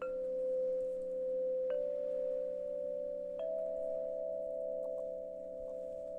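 Singing bowls struck one after another, three strikes about a second and a half apart, each adding a new ringing tone over the ones still sounding.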